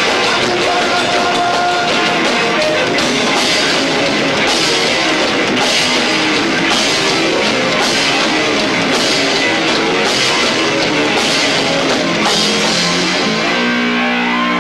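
A two-drummer rock band playing loud and heavy live, with distorted guitars and cymbal crashes about once a second, picked up through a camcorder's own microphone. Near the end the drum hits stop and a held, ringing guitar chord is left.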